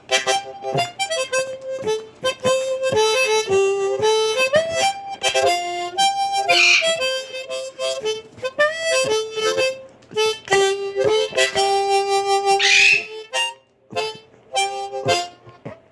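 Blues harmonica (diatonic harp) played solo: short phrased notes and some longer held notes in a bluesy line. Two short, high, shrill bursts cut in over it, about six and a half and thirteen seconds in.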